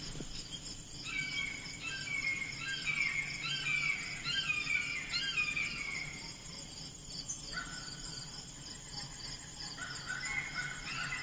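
A bird singing runs of short, repeated downward-sliding whistled notes, in a burst of several seconds and again near the end, over a steady high-pitched insect drone.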